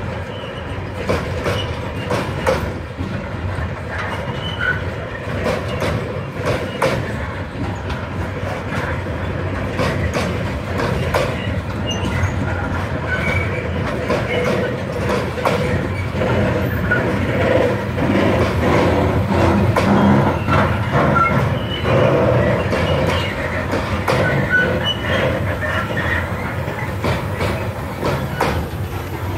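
Freight train wagons rolling slowly past, their wheels knocking irregularly over the rail joints, with short squeaks from the wheels and running gear.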